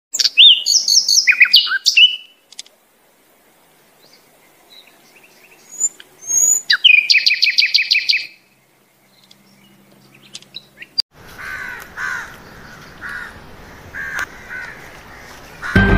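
Birds chirping and singing in bursts: a loud run of quick calls in the first two seconds and a rapid trill about seven seconds in, then fainter calls over a low background hiss.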